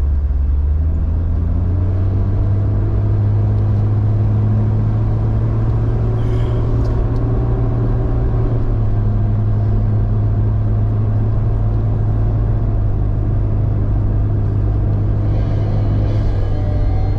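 1999 Jeep XJ's engine running under way, a steady low drone whose pitch climbs slightly in the first couple of seconds and then holds.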